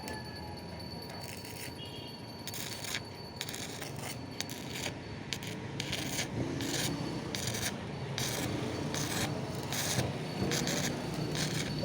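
Repeated short scraping or rasping strokes, sparse at first and then about two a second, getting slightly louder toward the end.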